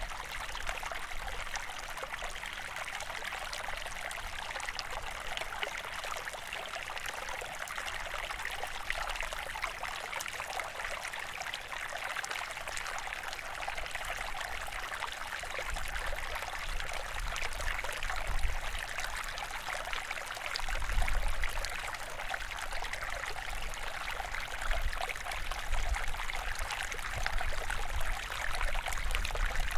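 Steady rush of running water. Low rumbles come and go in the second half, loudest about two-thirds of the way in.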